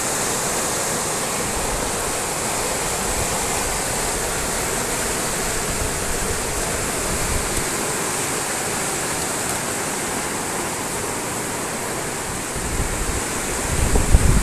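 Steady rush of fast-flowing water, an even hiss with no breaks. Near the end, wind starts buffeting the microphone with low rumbling thumps.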